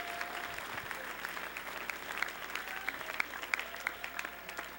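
Congregation applauding, many hands clapping at once, thinning out near the end.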